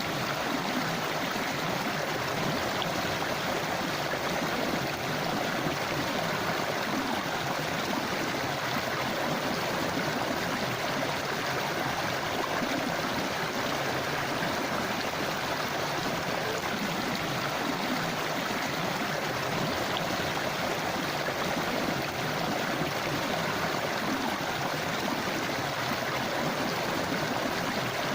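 Forest river flowing, a steady rush and babble of water over stones.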